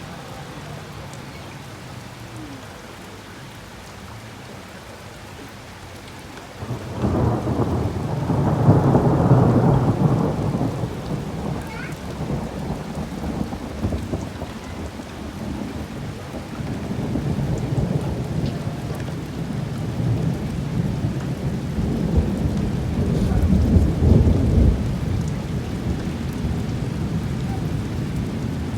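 Rain falling steadily, then about seven seconds in a thunderclap breaks into long, loud rumbling thunder, which rolls on and swells again near the end.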